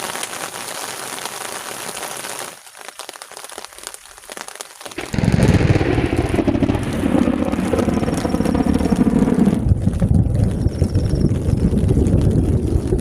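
Heavy rain falling, with a quieter stretch of scattered drips; about five seconds in a much louder, low rumbling noise of rain and wind sets in and holds.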